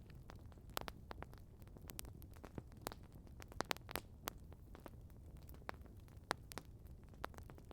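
Campfire crackling: irregular sharp pops and snaps, a few a second, over a low steady rumble.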